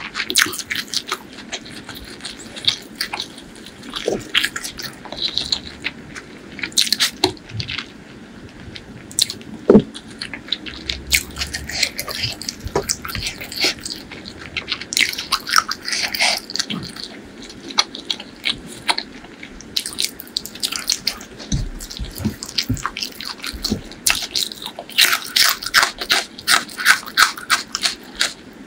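Close-miked wet chewing and lip smacking of chicken liver, gizzard and rice, a dense run of irregular sticky clicks. Partway through, fingers squish rice into the curry.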